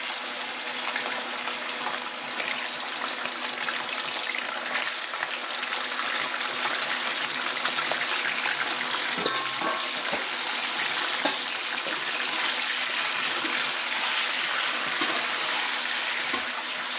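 Raw chicken pieces sizzling in hot cooking oil in a karahi, a steady dense crackling hiss that starts as the chicken goes in. There are a couple of sharp clicks about halfway through.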